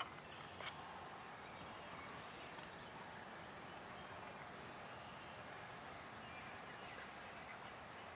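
Quiet outdoor field ambience, a steady faint hiss, with a few soft clicks in the first few seconds.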